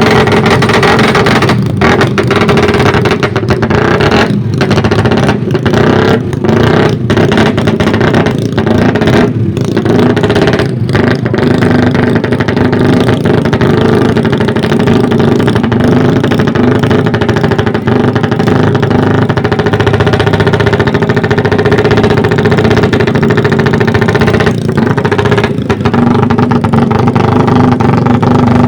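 Motorcycle engines running loud and close, with some revving. The sound breaks off briefly many times during the first half.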